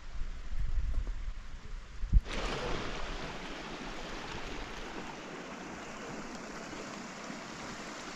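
Low rumbling noise for about two seconds, then a click and a steady rushing noise of water.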